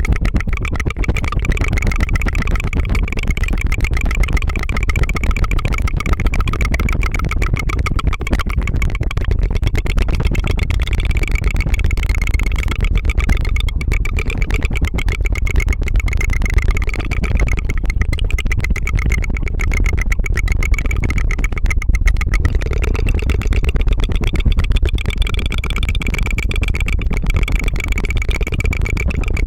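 Rapid tongue fluttering, a rolled tongue trill made close to the microphone, going on without a break as a fast, buzzing rattle like a small helicopter or engine.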